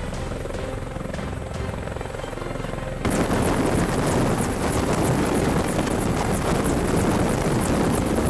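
Helicopter running. About three seconds in the sound jumps abruptly louder into a dense rushing roar of rotor and engine noise.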